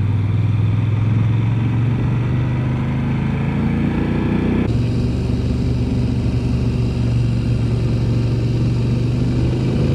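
Motorcycle engine running steadily at riding speed, with road and wind noise; the engine note shifts abruptly about halfway through.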